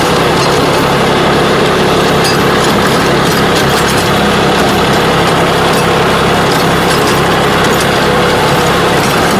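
John Deere 3036 compact tractor's three-cylinder diesel engine running steadily, driving a tractor-mounted rotavator, with a rattle of the tilling mechanism over it.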